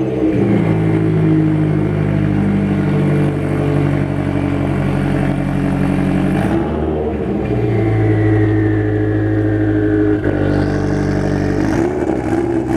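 Toyota 86's flat-four engine running through a newly fitted hater pipe (front-pipe resonator delete), held at steady revs with a change in engine speed about six and a half seconds in and again about ten seconds in.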